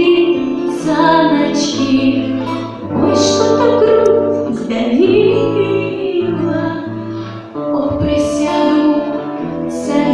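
A woman singing a song over instrumental backing with sustained bass notes.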